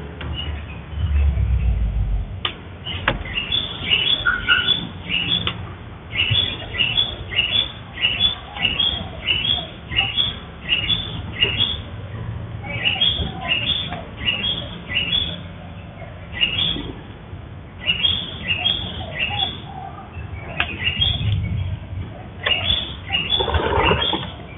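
A bird chirping in quick repeated runs, about three short chirps a second, with pauses between the runs. Now and then a sharp snip of bonsai pruning scissors cutting twigs.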